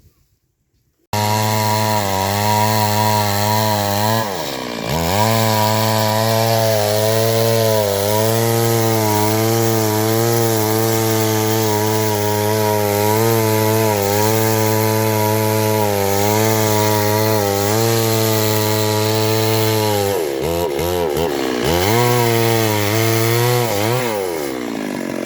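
Chainsaw running hard with a steady high engine note. The revs sag and pick up again twice, once about four seconds in and again near the end, as the saw bogs under load.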